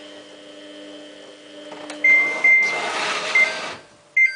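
Samsung front-loading washing machine beeping its alert several times, short high beeps starting about two seconds in, as it stops with an LE error code after failing to take in water. A steady hum runs underneath at first, and a brief rush of noise comes between the beeps.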